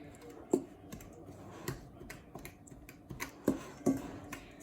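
Kitchen utensils knocking and clicking against dishes: about seven sharp, irregularly spaced strikes.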